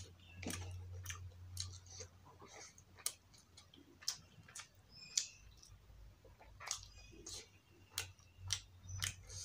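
Close-up mouth sounds of someone eating rice and fish curry: irregular sharp wet clicks and smacks of the lips and tongue while chewing, over a low steady hum.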